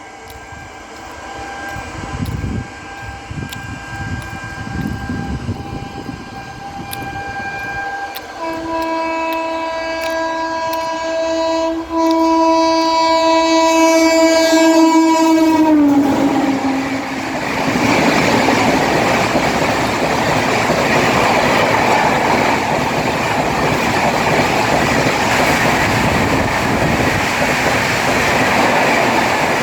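Express train's locomotive horn sounding one long blast as the train approaches at speed, the note getting louder about eight seconds in and sliding down in pitch as it passes about sixteen seconds in. Then comes the loud, steady rush and rattle of the coaches running through the station at about 130 km/h without stopping.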